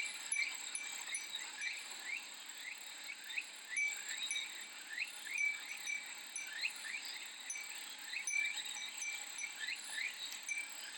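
Japanese fūrin wind chime tinkling in many short, repeated rings over a steady high-pitched drone of cicadas.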